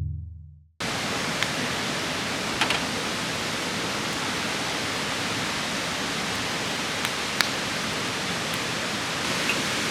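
The last musical note dies away within the first second. Then a steady hiss begins, with a few faint crackles.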